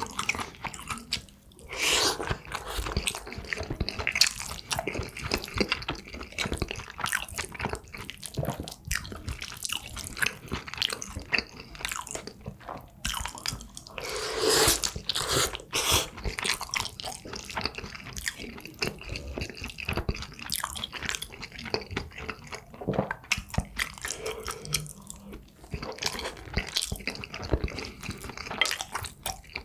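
Close-miked mukbang eating: a person chewing mouthfuls of dakgalbi fried rice, a dense run of small wet mouth clicks, with a couple of louder moments about two seconds in and near the middle.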